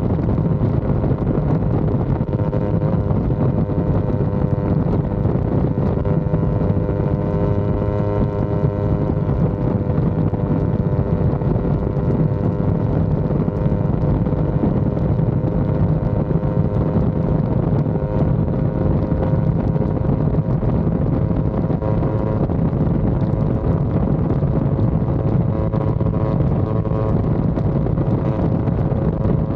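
Yamaha R25's parallel-twin engine running at a steady cruise with little change in revs, with wind rushing over the microphone.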